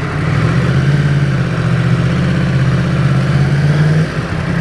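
Yamaha MT-10's crossplane inline-four engine, fitted with an Akrapovic exhaust, running at low revs. The note lifts a little about half a second in, holds steady, then drops back near the end.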